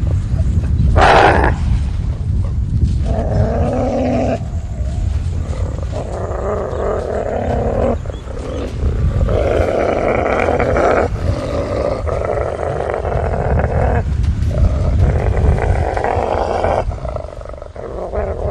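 Large animal growling in a series of long growls of a few seconds each, over a deep rumble.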